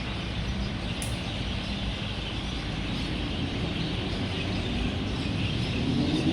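Steady rumble of road traffic with a dense chorus of roosting birds chirping over it. Near the end, a passing vehicle's engine grows louder.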